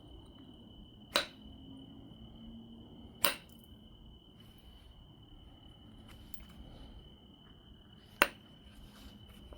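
Three sharp knapping strikes: flakes snapping off an obsidian biface about a second in, about three seconds in and near the end, with faint handling between them. A steady high-pitched tone sounds underneath.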